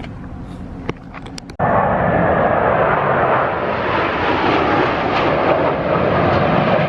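Aircraft flying past at an air show: a loud, steady engine roar that starts abruptly about a second and a half in, after a few sharp clicks.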